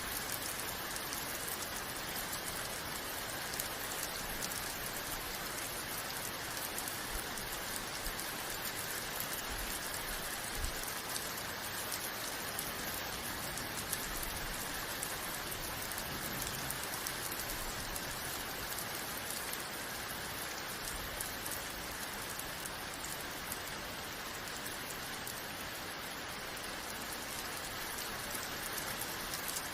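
Steady rain falling, a constant even hiss with many fine drop patters.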